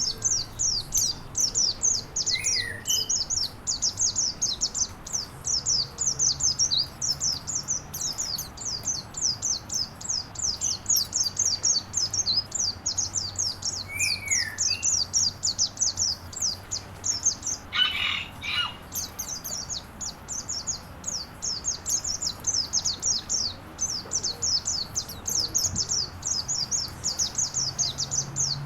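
Songbird singing a long, continuous string of quick, very high chirping notes, several a second, with a few lower slurred calls and one brief harsher call about two-thirds of the way through.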